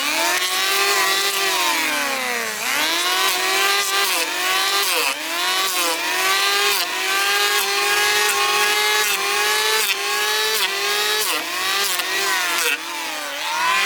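A small high-speed engine or motor running hard, its pitch sagging and recovering over and over, as a power tool does when it bogs under load while cutting.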